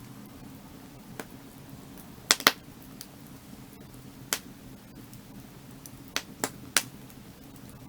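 Burning firewood crackling: sharp, irregular pops about seven times, the loudest pair close together about two and a half seconds in, over a low steady rush.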